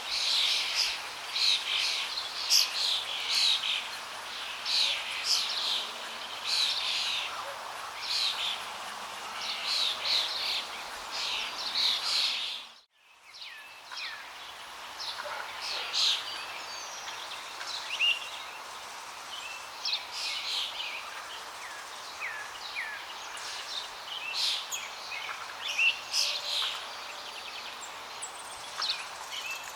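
Many small birds chirping and singing in quick overlapping calls over a steady rush of flowing water. About halfway through, the whole sound dips out for a moment and comes back, with the birdsong somewhat sparser afterwards.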